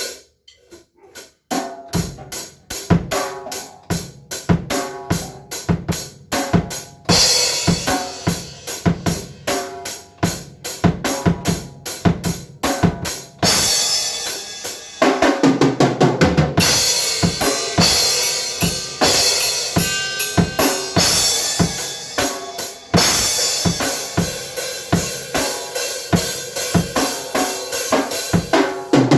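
Drum kit played in a steady, busy beat of kick and snare strikes, with cymbals coming in about seven seconds in.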